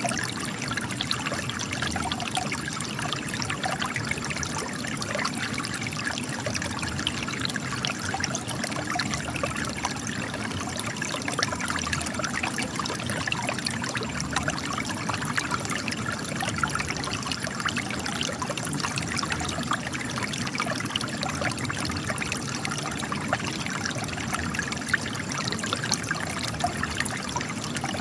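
Spring water trickling and splashing out of cracks in rocks, a steady, bubbly trickle with many small drips and splashes.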